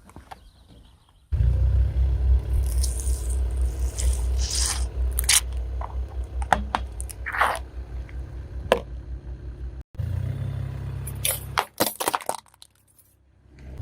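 Car tire rolling slowly over objects and crushing them: a low, steady rumble with a string of sharp cracks and crunches. It cuts off suddenly about ten seconds in, and a shorter stretch of rumble and clicks follows.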